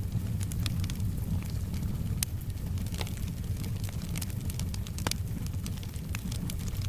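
Wood fire crackling in a fireplace: scattered sharp pops and snaps, one louder pop about five seconds in, over a steady low rumble.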